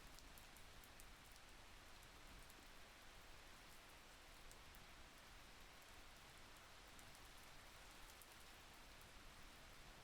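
Faint, steady rain: an even hiss with scattered light drop ticks.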